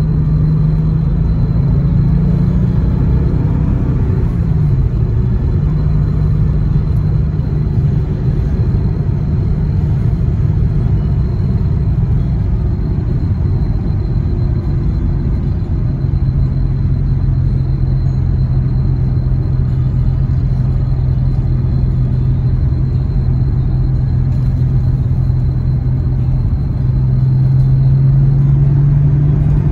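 Porsche 993 Cabriolet's air-cooled 3.6-litre flat-six running at a steady cruise, heard from inside the car over road and wind noise. The engine note dips briefly a few seconds in, settles to a lower steady pitch about halfway, and rises and grows louder near the end.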